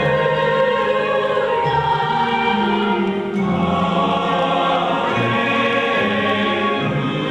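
A choir singing, holding long notes that change every second or two.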